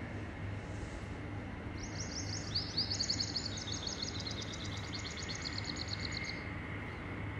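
Small birds trilling for a few seconds in rapid, overlapping runs of high notes, starting about two seconds in, over a steady low background rumble.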